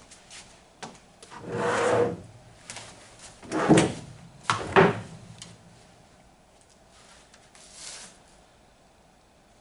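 Handling noises: a scraping slide, then two sharp knocks about a second apart, and a fainter slide near the end.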